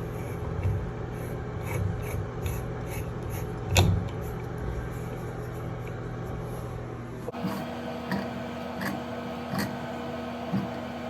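Shower head being refitted by hand onto Teflon-taped shower arm threads: repeated rubbing and scraping of tape and threaded fittings, with a sharper knock about four seconds in, over a steady hum. The background hum changes abruptly about seven seconds in.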